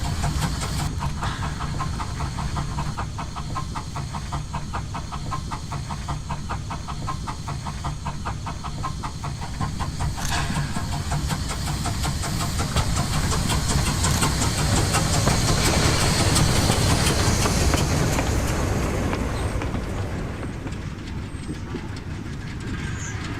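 Steam locomotive running on the line with a fast, even beat, growing louder as it passes, loudest about two-thirds of the way in, then fading away.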